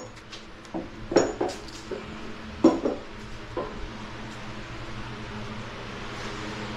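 Metal engine parts and hand tools clinking and knocking about eight times in the first four seconds, over a steady low electrical hum.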